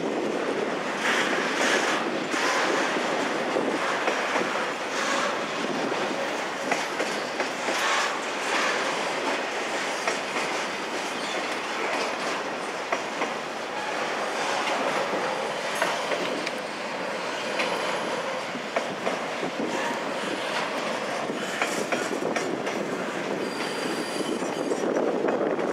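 Double-stack intermodal freight train cars rolling steadily past: wheels clicking and clanking over the rail joints at an irregular pace, with a few brief high wheel squeals.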